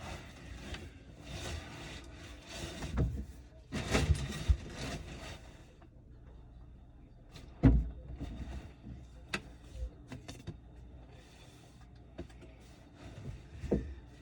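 Scattered knocks, clunks and rustling from hands handling objects, with one sharper knock a little under eight seconds in.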